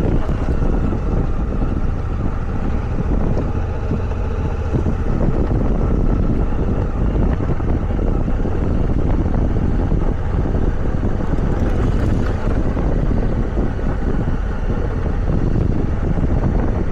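Motorcycle engine running at a steady pace while riding, mixed with wind noise on the microphone.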